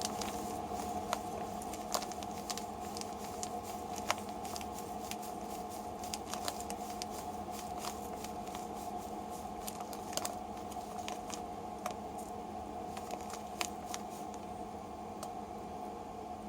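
Scattered light clicks and rustles of hands handling things, over a steady low hum.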